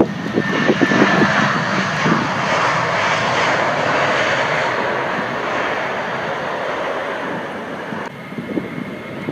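Airbus A320 jet airliner passing on its landing, a steady loud rush of engine noise with a thin whine early on. About eight seconds in it cuts off abruptly to wind buffeting the microphone.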